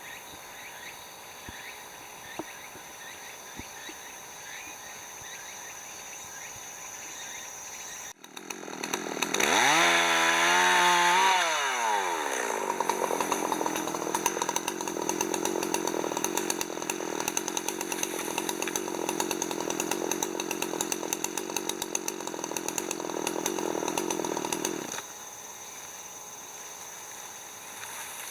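Chainsaw cutting firewood. It comes in suddenly about eight seconds in at high revs, drops in pitch as it bears into the wood, then saws steadily for about twelve seconds before cutting off suddenly near the end.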